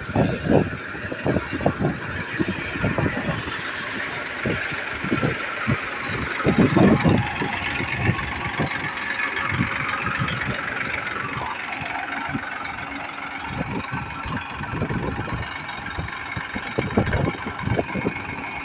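Tractor-driven pearl millet (bajra) threshing machine running: a steady mechanical engine noise with frequent irregular low thumps.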